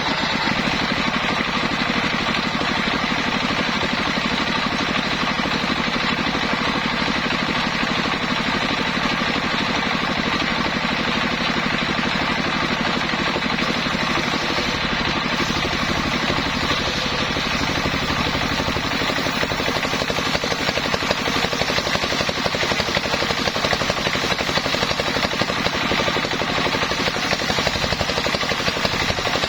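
Engine of a homemade sawmill running steadily, with a rapid, even firing beat.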